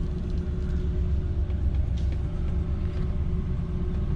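Cabin sound of a 1968 Cadillac Calais cruising on the road: a steady low rumble from its 472 cubic-inch V8 and the tyres, with a faint steady hum.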